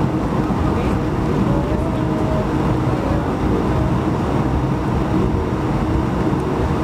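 Steady cabin noise of an Airbus A220-100 (ex Bombardier CS100) on the ground, its Pratt & Whitney PW1500G geared turbofans running at low power, heard from a seat over the wing: an even rumble with a faint hum.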